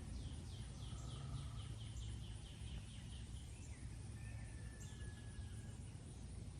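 Wild birds calling: one gives a fast run of repeated high notes, about five a second, for some three seconds, and others add a thin whistled note and short sharp chips. A steady low rumble sits underneath.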